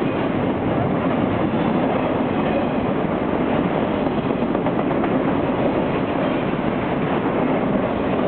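Auto-rack freight cars rolling past at close range: a steady rumble of steel wheels on the rails.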